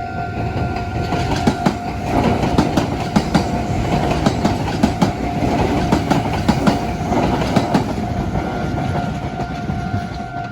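A train passing over a Japanese railway level crossing, its wheels clattering over the rail joints, loudest in the middle and fading near the end, over the crossing's electronic warning bell ringing its kan-kan-kan.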